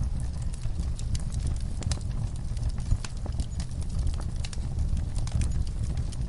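Wood fire crackling in a fireplace: irregular sharp pops and snaps over a steady low rumble of the burning, with one louder pop about three seconds in.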